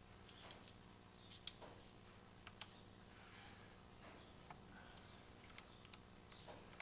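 Faint scattered light clicks and taps, with one sharper click about two and a half seconds in, over a quiet steady hum.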